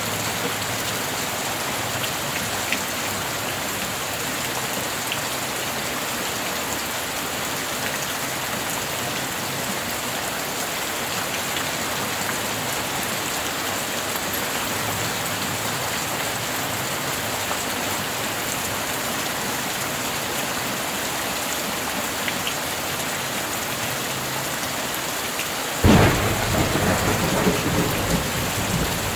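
Heavy rain falling steadily. Near the end a sudden thunderclap cracks and rumbles on for a few seconds.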